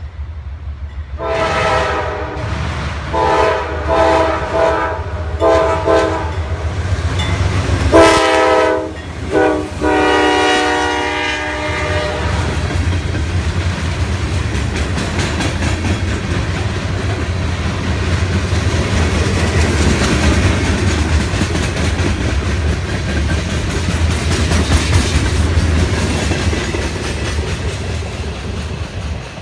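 CSX freight train led by a GE C40-8W diesel locomotive sounding its air horn in a series of blasts over the first twelve seconds, the last blast the longest. Then the freight cars roll past with a steady rumble and the clickety-clack of wheels over the rail joints.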